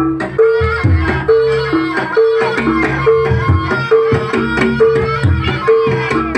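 Javanese jaranan (kuda lumping) ensemble music: hand drums beat a lively rhythm under a repeating two-note gong-chime pattern, with a wavering melody above.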